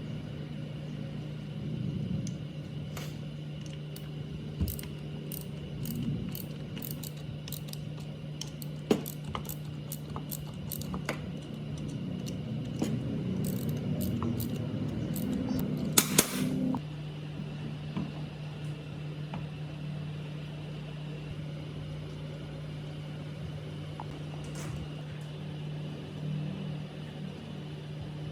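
Small clicks and light knocks of metal parts being handled and fitted, with a sharper double click about sixteen seconds in, over a steady low hum.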